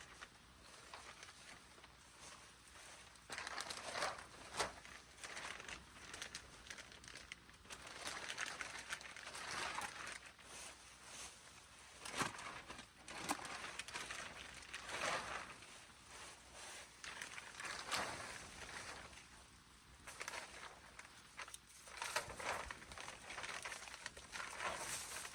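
Plastic sheeting crinkling and rustling in irregular bursts as it is handled.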